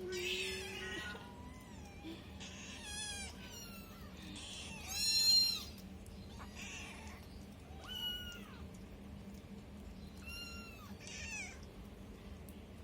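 Kittens mewing: a series of short, high-pitched mews every second or two, the loudest about five seconds in.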